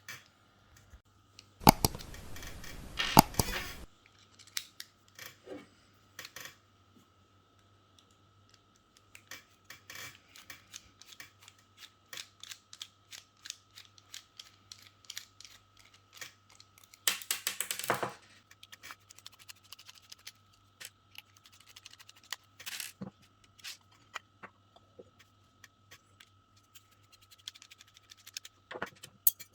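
Small plastic and metal parts of a hair clipper clicking and scraping as it is taken apart by hand. There are two longer bursts of scraping, about two seconds in and again past the middle, among many separate clicks.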